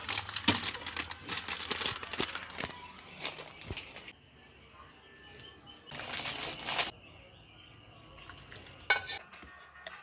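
Bursts of rustling and crinkling mixed with small clicks, dense for the first four seconds, again about six seconds in and briefly near nine seconds.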